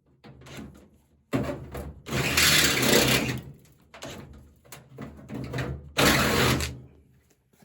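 Right-angle tin snips cutting sheet metal by hand: a series of about five irregular, noisy cutting strokes, the loudest about two and a half and six seconds in.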